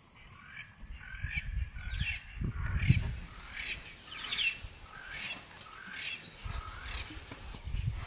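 A bird calling over and over, a short high call repeated about once a second, over low rumbling noise that is loudest about three seconds in.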